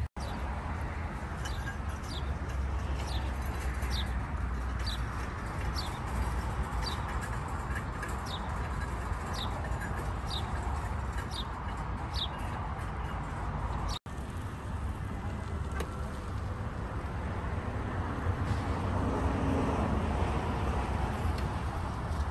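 A bird repeats a short, high, downward-slurred whistled note about every three-quarters of a second for some eleven seconds, then stops. Steady low outdoor background noise runs underneath.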